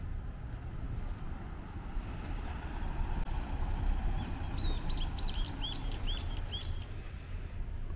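A small bird gives a quick run of short chirps, about eight notes over two seconds starting about halfway through, over a steady low outdoor rumble.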